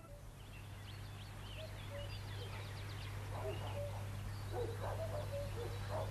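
Birds calling: a chatter of short high chirps, joined from about halfway by repeated short lower calls, over a steady low hum.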